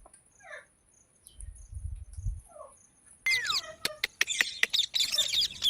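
Pet green parrot, an Indian ringneck, calling: a few faint falling chirps, then about three seconds in a sudden run of loud, rapid chirps and squeaky whistling calls mixed with sharp clicks.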